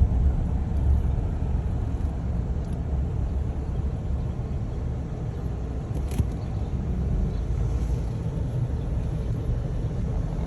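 Steady low rumble of a car driving, heard from inside the cabin, with one short click about six seconds in.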